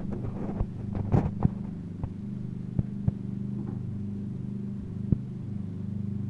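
A steady low motor hum with a few short, sharp clicks scattered through it.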